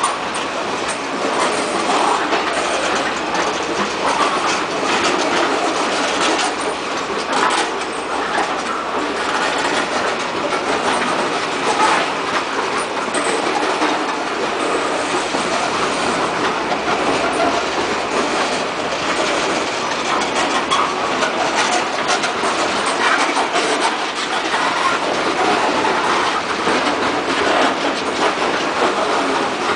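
Freight train of open-top rock hopper cars rolling past at a grade crossing. Steady wheel-and-rail rolling noise with scattered clanks from the cars.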